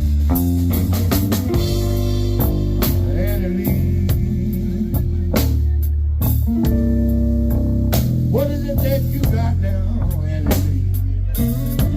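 A blues band playing live: guitar lines with bent notes over bass and a steady drum-kit beat.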